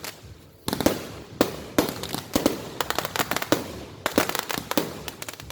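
Fireworks going off in rapid succession: after a short lull, a dense run of sharp bangs and crackling reports, many packed close together.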